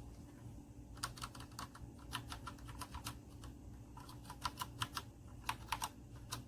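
Typing on a Redragon K617 Fizz 60% mechanical keyboard: uneven keystroke clicks that start about a second in, with a few louder clacks near the end.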